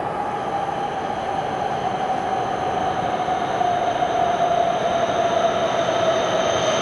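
JR East E7 series Shinkansen train running in to a platform, its rushing running noise growing steadily louder. Over it a whine slowly falls in pitch as the train slows to arrive.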